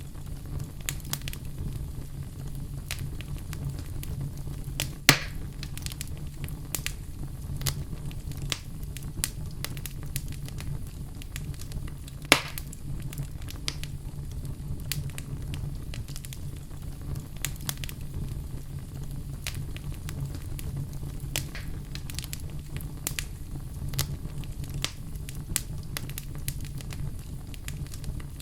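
Wood fire burning in a fireplace, crackling with frequent small snaps over a steady low rumble; two louder pops stand out, about 5 seconds in and about 12 seconds in.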